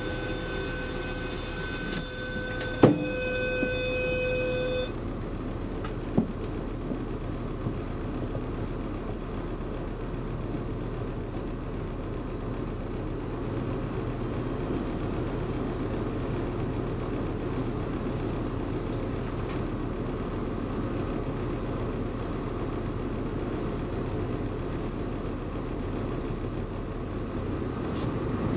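Door-closing warning buzzer on a DSB IC3 train, one steady tone for about five seconds, with a sharp thump about three seconds in as the door shuts. After that the train's diesel engine runs steadily at the platform, a little louder near the end.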